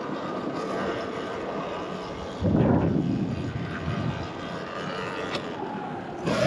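Electric dirt bike motor whining steadily over wind buffeting on the microphone, with a loud gust of noise about two and a half seconds in and the whine starting to rise in pitch at the very end.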